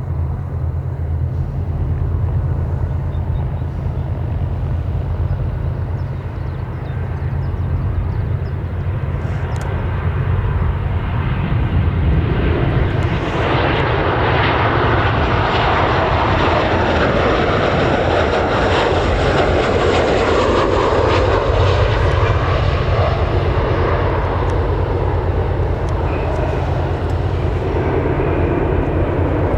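Aircraft engine roar that swells from about twelve seconds in as a plane passes close by, over a steady low rumble.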